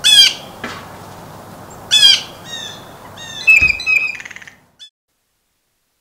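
Wild birds calling: two loud harsh calls about two seconds apart, then a run of chirps and a short steady whistle, over a low outdoor hiss. A brief low thump comes about three and a half seconds in, and the sound cuts off shortly before the end.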